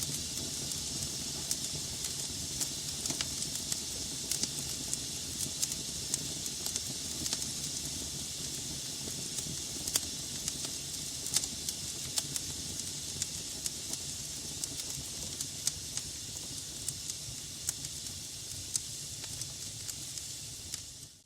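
Wood logs burning in a fireplace: a steady hiss with frequent sharp, irregular crackles and pops. Right at the end the sound cuts out abruptly for a moment.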